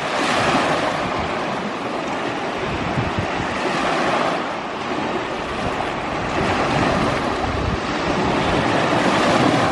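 Sea waves washing in, the surf swelling in a surge every four or five seconds, with wind buffeting the microphone in low, uneven rumbles.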